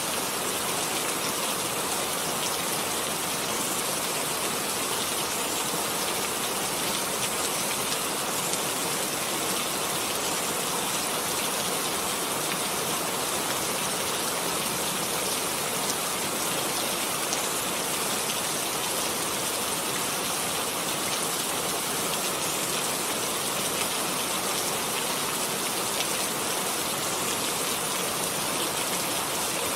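Steady rain falling, an even hiss of many drops with faint individual drop ticks scattered through it.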